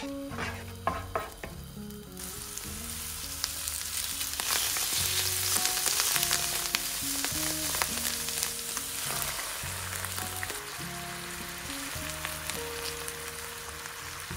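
Onion and sliced mushrooms frying in olive oil in a nonstick pan, sizzling and crackling while a wooden spoon stirs and clicks against the pan. The sizzle starts up sharply about two seconds in and is loudest around the middle.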